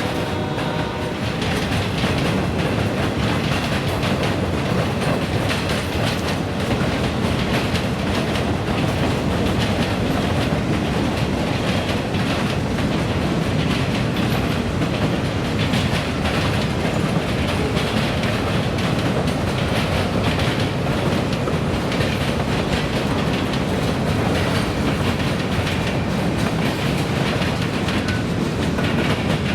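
Freight train cars rolling past, a steady rumble with wheels clacking over the rail joints. A steady pitched tone dies away about a second in.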